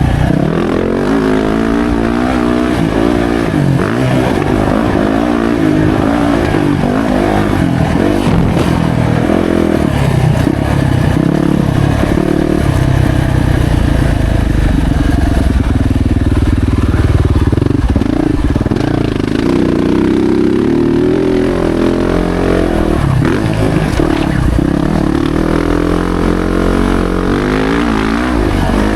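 Yamaha YZ450F's single-cylinder four-stroke engine under hard riding on a motocross track, its pitch rising and falling again and again as the throttle is opened and closed and it shifts gears.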